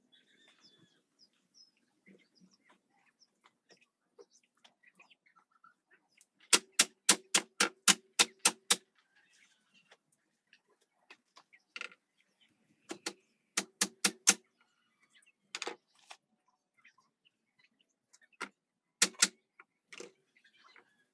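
Hammering: sharp blows in quick runs, first about eight at four a second, then shorter groups of two to four with pauses between.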